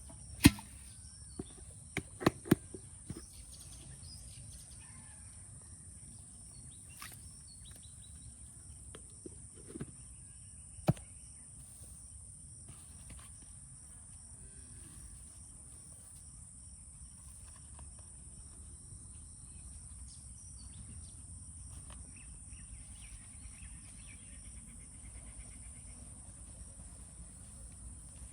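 Insects droning steadily at a high pitch, with a fainter pulsing chirp beneath, over a low outdoor rumble. A few sharp knocks stand out in the first three seconds, with one more about eleven seconds in.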